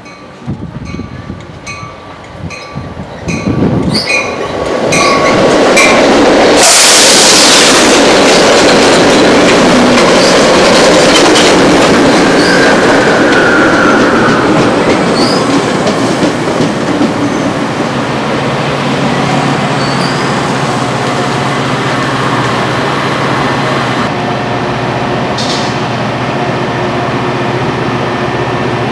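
A train passing close at speed: a loud rush of wheels on rail swells about four seconds in and holds for several seconds. It then eases to a steadier rumble with a low hum underneath. Regular ticking is heard in the first few seconds.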